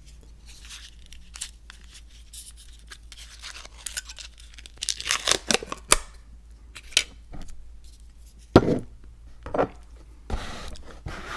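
Packaging being handled and torn open, with rustling and tearing heaviest about halfway through, then a few sharp knocks of things set down.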